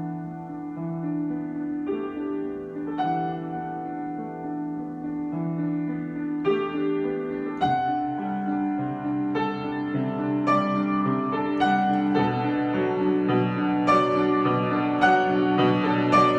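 Solo piano improvisation: held chords with new notes struck about once a second, the playing growing fuller and louder from about halfway through.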